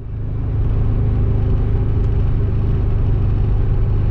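Subaru Impreza WRX STI's turbocharged flat-four engine and the moving car, a steady low drone while driving at an even speed.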